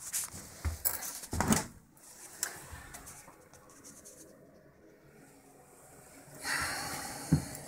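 A few sudden knocks and clunks, then a brief rush of noise that ends in a sharp thump near the end.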